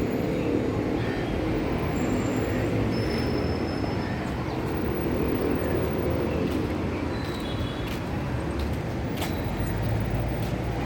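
Steady low rumble of outdoor background noise, with a few faint, short high-pitched chirps and light clicks over it.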